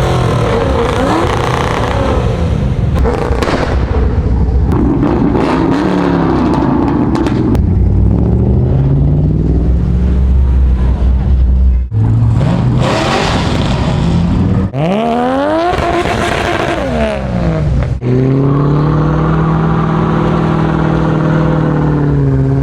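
Car engines revving hard, their pitch climbing and falling again and again, in several clips with abrupt cuts between them.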